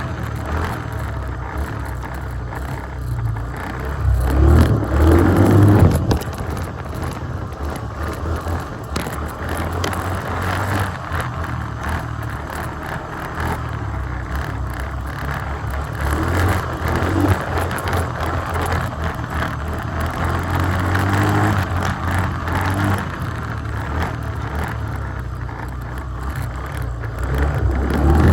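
2021 Yamaha Grizzly 350 ATV's single-cylinder engine running under load while being ridden. Its revs rise and fall, and it is loudest about four to six seconds in and again near the end.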